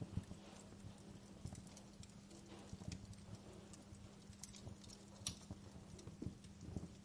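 Wood fire crackling in a fireplace: irregular pops and snaps, some sharp and some dull, over a faint steady low hum.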